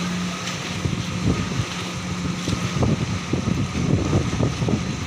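Heavy diesel engine running steadily with a low hum, under wind buffeting the microphone.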